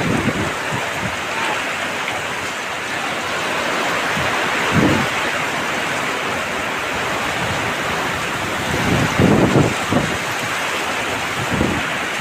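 Heavy rain pouring steadily, with a few gusts of wind buffeting the microphone.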